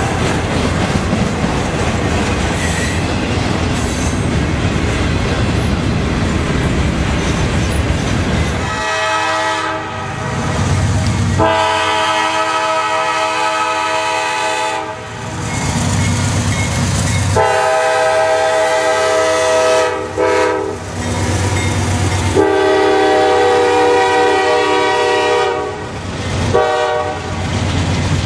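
A freight train's cars rumbling and clacking past on the rails. About nine seconds in, a diesel locomotive's multi-note air horn starts sounding a series of long blasts with a short one among them, over the low rumble of the passing train.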